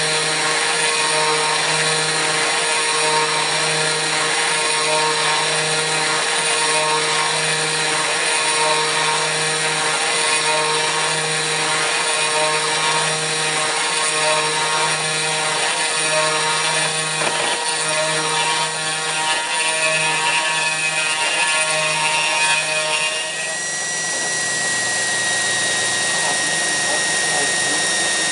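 Kress FME-1050 router spindle running at high speed on a hobby CNC mill cutting aluminium: a steady whine made of several high tones over a low hum that pulses about once a second. About 23 seconds in the sound changes suddenly, the pulsing stops and a single steady whistle takes over.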